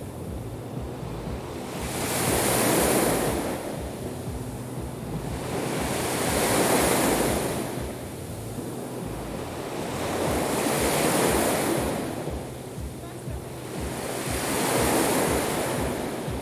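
Black Sea waves breaking on the shore and washing back, four waves swelling and fading about every four seconds.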